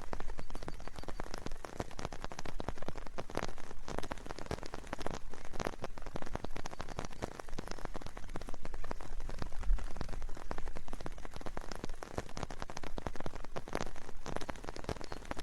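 Steady rain with a dense, unbroken run of separate drops hitting close by.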